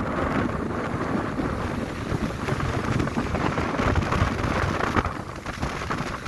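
Wind buffeting the microphone: a steady, gusting rush of noise with heavy low rumble and no clear tones.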